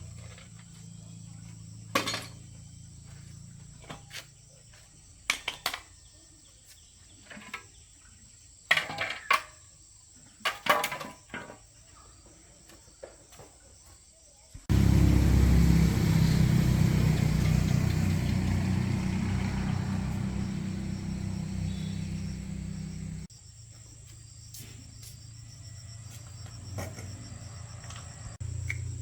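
Workshop repair sounds: scattered sharp tool clicks and knocks, then about halfway through a loud steady rush with a low rumble starts suddenly, slowly fades over about eight seconds and cuts off abruptly.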